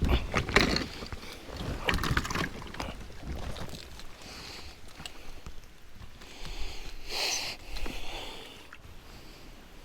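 Kayak paddling: the paddle blade splashing in the water, with several knocks and clicks against the hull in the first couple of seconds.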